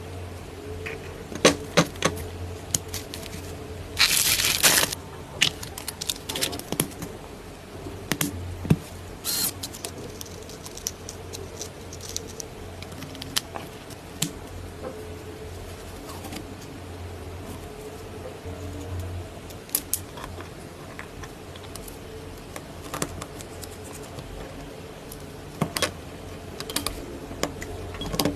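Small parts being handled: scattered sharp clicks and clinks, with a rustling scrape about four seconds in and a shorter one a few seconds later, over a steady low hum.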